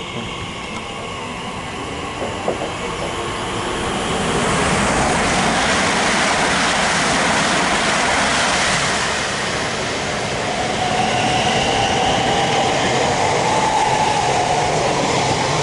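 Two electric multiple-unit trains, an Elizabeth line Class 345 and a Heathrow Express, rushing past at speed one after the other. The rush swells about four seconds in, eases a little around ten seconds, then returns with a steady whine.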